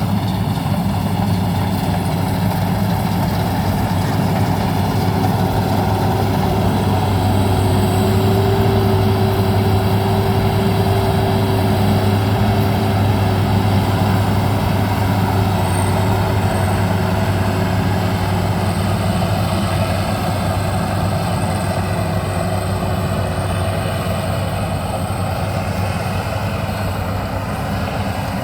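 Maxxi Bimo 102 rice combine harvester's engine running steadily at constant speed, a dense, even mechanical drone.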